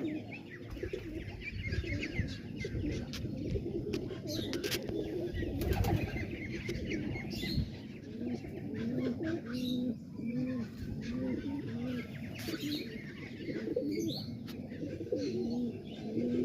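Domestic pigeons cooing over and over, with the coos coming thickest in the second half, and higher bird chirps scattered among them. A low rumble runs under the first half.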